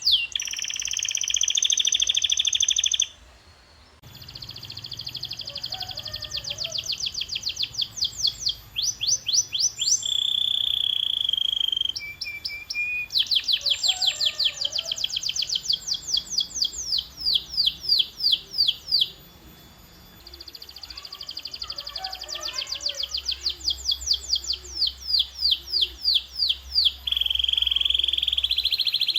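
Domestic canary singing: phrase after phrase of fast trills and rolls, some held on one pitch and some made of quick sweeping notes, changing abruptly from one phrase to the next.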